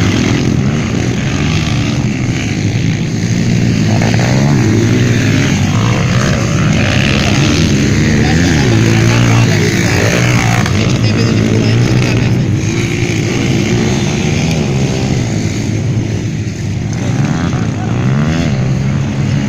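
Several 150cc motocross bike engines revving up and down as the bikes race on the track, their pitch rising and falling over and over.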